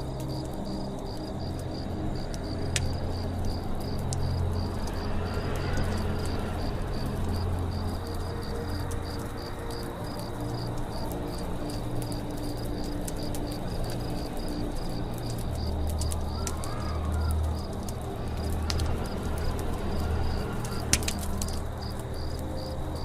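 Campfire-in-the-forest ambience: a fire crackling with scattered sharp pops, one louder crack near the end, over a steady pulsing chirr of crickets. Birds call a couple of times, and low sustained tones run underneath.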